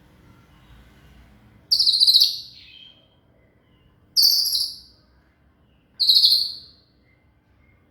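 White-rumped shama (murai batu) singing three short, loud, high-pitched phrases about two seconds apart, each trailing off downward.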